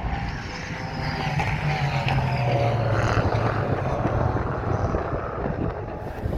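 Racing car's engine passing on the circuit: its note swells to a peak about two to three seconds in, then drops in pitch and fades as it goes away.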